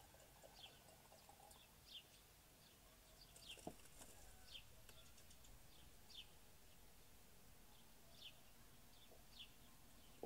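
Faint birdsong: a bird giving short falling chirps again and again, every half second to a second, with one soft knock a little under four seconds in.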